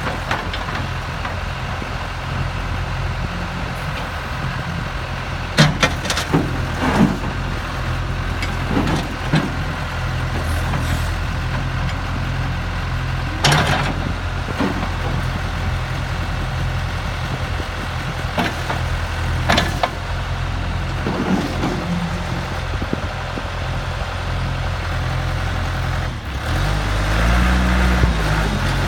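John Deere 310D backhoe's four-cylinder diesel engine idling steadily, with a few sharp clanks now and then. Near the end the engine revs up and back down.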